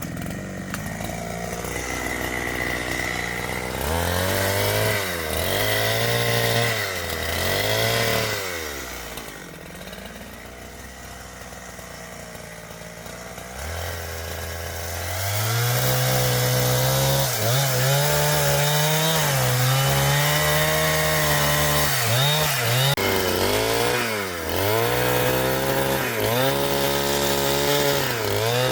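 Two-stroke chainsaw cutting timber, revved up and down in several short bouts, easing off for a few seconds mid-way, then held at high revs under load for the second half with brief dips.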